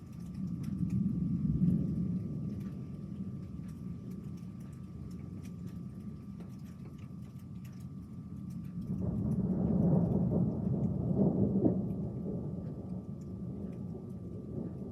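Thunder rumbling in two rolls: a swell in the first few seconds, then a louder, crackling peal about nine seconds in that fades after a few seconds. Scattered raindrop ticks sound throughout.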